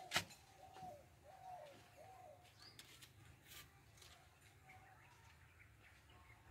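A sharp click just after the start, then faint bird calls: a row of short humped notes over the first two and a half seconds, with a few scattered light clicks after.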